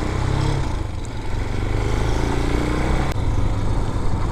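Vitacci Raven 250 dirt bike's air-cooled 250cc engine running while being ridden at low speed, its note rising a little after about a second.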